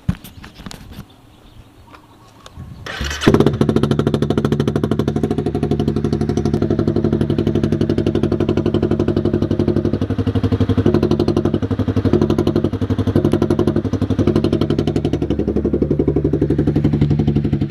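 Motorcycle with its exhaust uncapped starting up about three seconds in, after a few clicks, then idling loud and steady with a rapid, even exhaust pulse.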